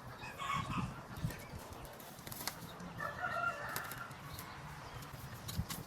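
Domestic fowl calling twice: a short call just under a second in and another around three seconds in, with light scattered clicks between.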